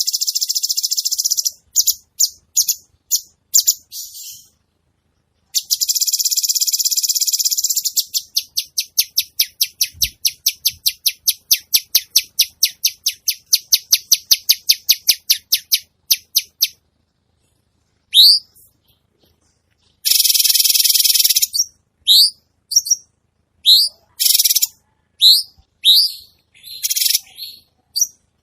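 Songbird calls from a master recording for training competition birds, full of harsh, rough filler notes. Buzzy chattering trills alternate with a long run of quick sharp notes, about four or five a second. In the second half come short rising chirps about once a second, broken by brief silences.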